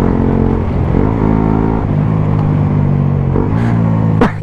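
125cc single-cylinder motorcycle engine under way, its pitch dipping and climbing again about a second in, then holding steady before changing again near the end.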